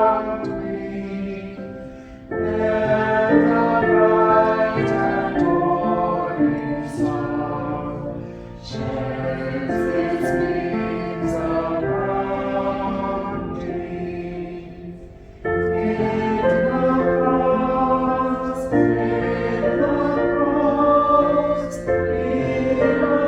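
Church choir singing a slow sacred piece in sustained phrases several seconds long, with brief breaths between phrases.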